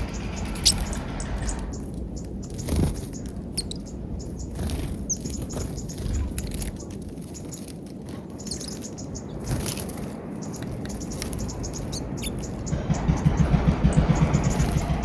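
Small wild birds chirping at a peanut feeder, scattered short high calls. A low rumble runs underneath and grows louder and pulsing near the end.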